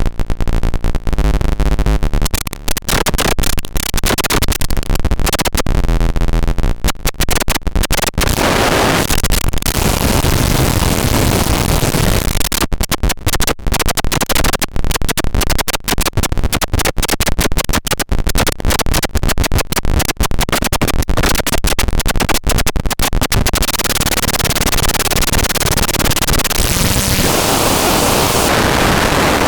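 Paratek "Kosmicheskiy Shum" eurorack module, a Jupiter Storm–style noise source built on square-wave oscillators, making harsh, chaotic electronic noise. It starts as a pitched square-wave buzz, breaks after about two seconds into rapid stuttering crackle, and settles into a steadier hiss over the last few seconds.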